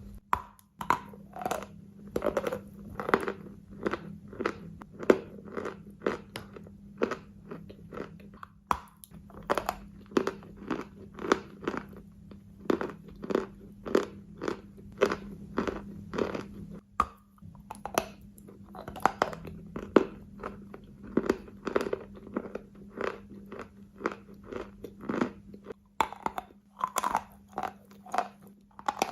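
Wet, gritty sandy material being crunched over and over, one short crunch after another at about two a second. A steady low hum sits underneath.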